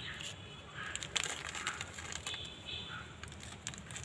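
Birds chirping in short calls, with scattered sharp clicks and crackles, the loudest about a second in.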